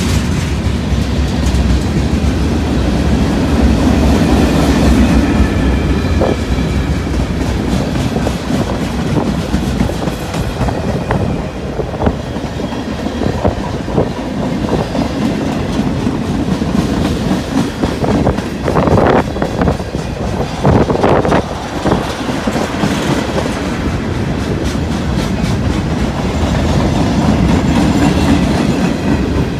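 Freight train rolling past, its wheels clicking over the rail joints, with a cluster of louder knocks about two-thirds of the way through.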